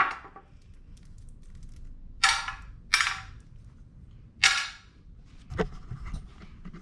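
Three sharp bangs of tools on the jet ski's jet pump, the first two close together and the third about a second and a half later, then a few lighter clicks near the end.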